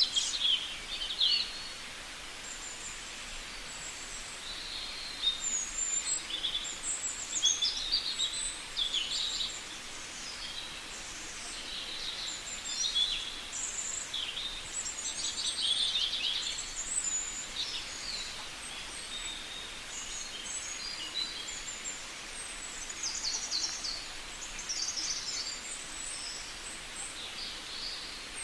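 Indian green parrots calling: many short, shrill chirps and squawks, some rapidly pulsed, come in quick clusters throughout over a steady background hiss.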